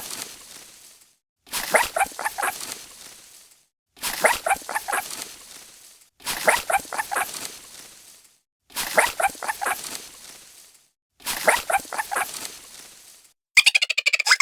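An animal call: a quick run of four or five short pitched pulses, repeated six times at even spacing about every two and a half seconds, each time the same.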